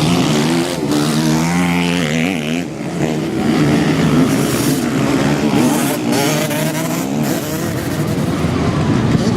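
Motocross bike engines running and revving, their pitch rising and falling unevenly.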